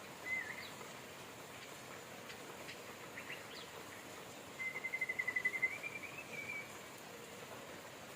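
Birds chirping over a steady hiss of rain: a short call just after the start, a few faint chirps, then a longer trilled phrase, rising slightly, a little after the middle.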